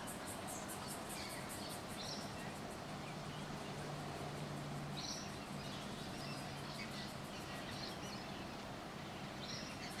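Garden ambience: a few faint, brief chirps of distant small birds scattered over a steady background hiss and low hum. A rapid, high pulsing trill runs for under a second at the start, then stops.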